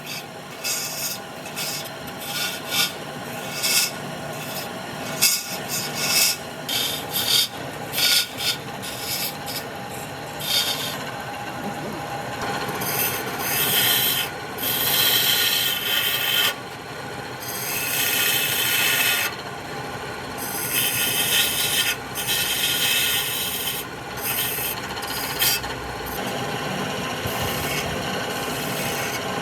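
Wood being worked on a running wood lathe, a tool rasping against the spinning blank. It comes in many short strokes at first, then in longer passes of a second or two each.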